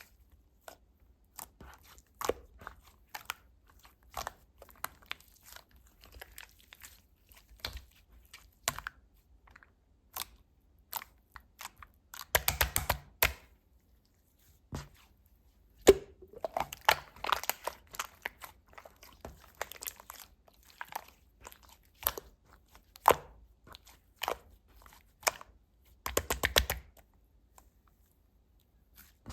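Cloudy white slime squeezed and pressed by hand, giving irregular sticky clicks and pops, with two quick runs of dense clicking, one about halfway through and one near the end.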